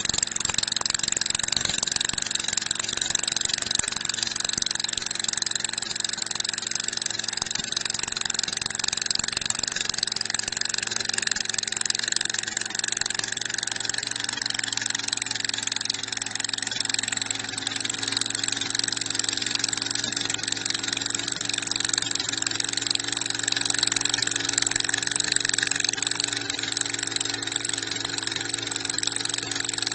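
Engine of a portable soil core drilling machine running steadily, powering the drill.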